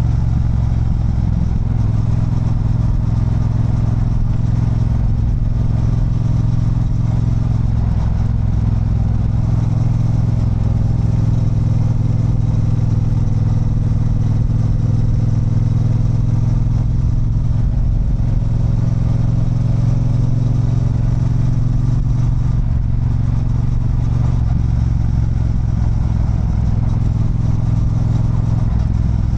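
Triumph Bonneville Bobber's 1200 cc parallel-twin engine running under way at fairly steady revs, with a slight waver in pitch but no big revs or gear changes.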